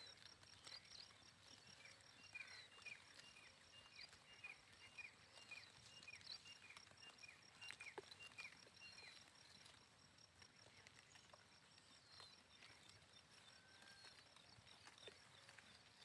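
Faint birdsong: one bird repeats a short falling chirp about twice a second for several seconds, with a few higher whistles, over a steady rapid high-pitched ticking and a few soft clicks.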